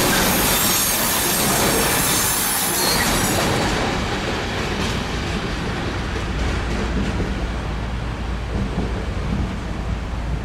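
Train running on the station tracks: loud noise of wheels on rail with some squeal. The high hiss dies away about four seconds in, leaving a low rumble with a few clicks.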